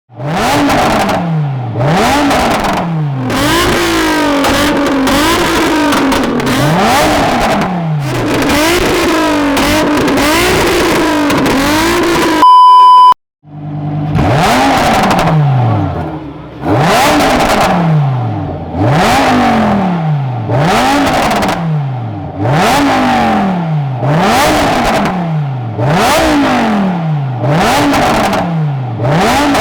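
Lamborghini Huracan Evo and Nissan 350Z sports-car engines revved hard over and over, each rev climbing and falling straight back, about one rev every one to two seconds. About halfway through, a loud steady beep tone cuts in, then a short silence, before the revving resumes.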